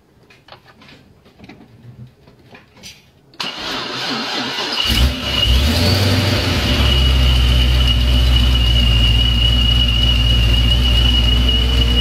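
Car engine cranked over about three and a half seconds in. It catches about a second later with a brief rise in revs, then settles into a steady idle with a steady high whine over the low hum.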